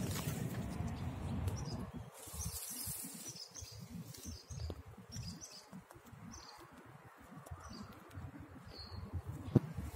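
Birds chirping in short scattered calls, over a low rumble on the microphone that is heaviest in the first two seconds and then comes and goes. A single sharp click near the end.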